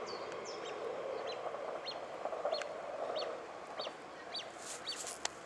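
Birds calling outdoors: a short high chirp repeats about every half second over a steady lower murmur of other calls, with a brief hiss near the end before the sound cuts off abruptly.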